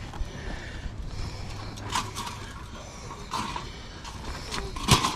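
Handling sounds of camp gear: three sharp knocks or clatters over a low steady background, the loudest near the end.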